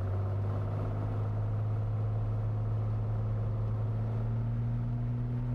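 Cessna 182T's Lycoming IO-540 six-cylinder engine at takeoff power as the takeoff roll begins, a steady drone heard in the cabin, its pitch rising slightly in the first second and then holding.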